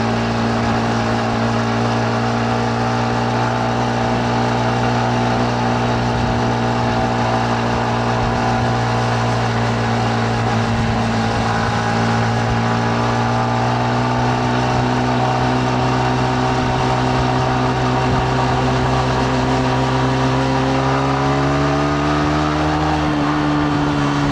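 Yamaha MT-15's single-cylinder engine running at steady revs under riding, its pitch climbing near the end as the revs rise.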